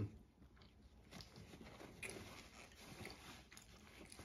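Faint close-up chewing and mouth smacks of people eating seafood boil, with scattered small clicks. A single soft knock right at the start.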